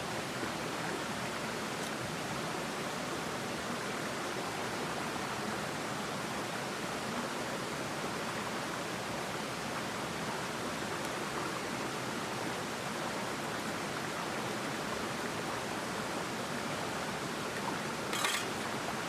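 Mountain stream rushing steadily. A brief sharp sound near the end.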